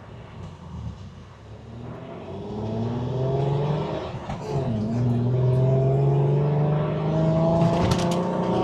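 Chevy S10's 4.3-litre V6 accelerating hard under full throttle from a launch, its pitch rising through first gear, dipping at a manual gear change about four seconds in, then climbing again through the next gear. A few sharp knocks near the end.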